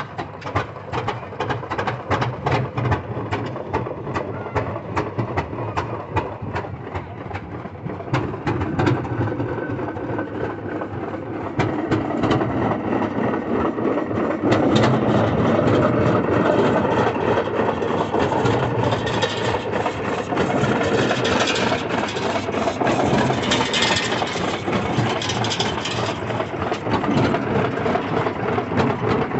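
A heavy engine running, with rapid even exhaust beats. A louder rushing noise builds over it from about halfway through.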